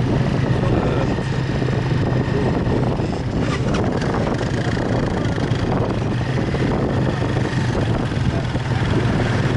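Motorbike engine running steadily during a ride, with a constant low hum and road and wind noise.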